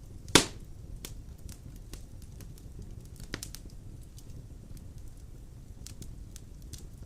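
Large wood logs burning in a stone fireplace: a steady low rumble of flame with scattered crackles. One loud sharp pop comes about half a second in, and a smaller one about three seconds later.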